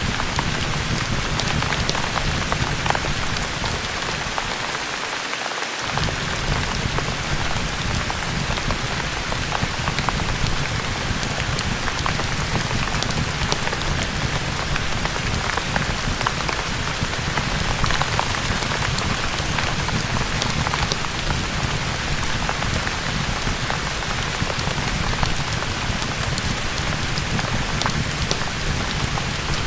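Steady rain falling, with scattered sharp clicks through the hiss. The low rumble drops out briefly about five seconds in.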